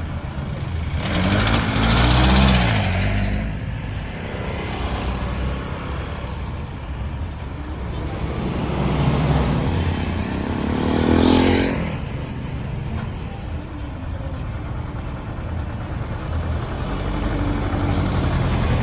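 Road traffic going by, with a constant low engine rumble. Two vehicles pass loudly, about two seconds in and again about eleven seconds in, each rising and then fading as it goes past.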